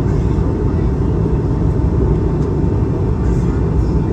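Steady, loud cabin roar of an Airbus A220-300 with Pratt & Whitney PW1521G geared turbofan engines, a deep rumble of engine and airflow noise heard from inside the cabin, with a faint steady hum of engine tones over it.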